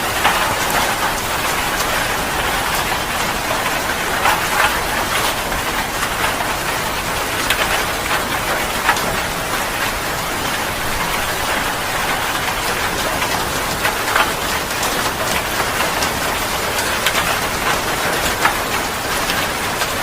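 Heavy rain pouring steadily, with many individual drops striking a hard surface as sharp, close patters over the dense hiss of the downpour.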